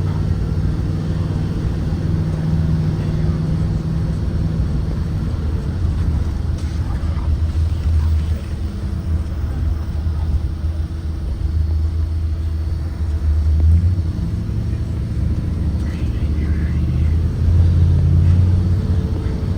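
Blue Bird Vision propane school bus running, a steady low engine and road rumble that swells slightly twice near the end.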